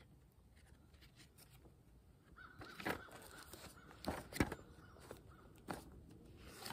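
A bird calling faintly a few times outdoors, with a few short sharp sounds in between, the loudest about three seconds in.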